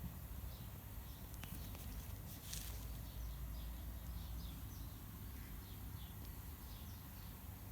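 A small bird chirping over and over in the background, short high chirps about two a second, over a low rumble. A few faint clicks come in the first half.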